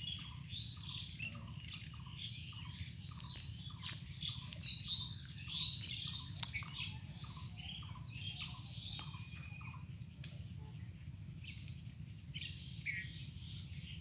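Several birds chirping and calling, one of them repeating a short falling note about three times a second that stops about halfway through, over a steady low rumble.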